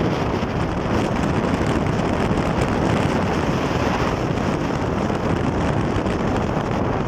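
Strong wind blowing hard across the microphone: a loud, steady rushing and buffeting with no let-up.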